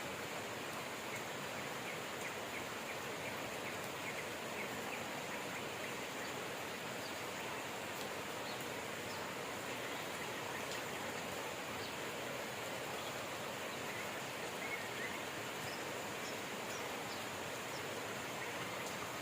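Steady rain falling, with faint short bird chirps scattered through it.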